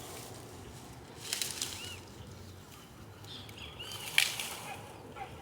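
Birds chirping: a few short, arched calls over a quiet outdoor background. Several clicks and rustles come about a second in, and one sharp crack or knock, the loudest sound, about four seconds in.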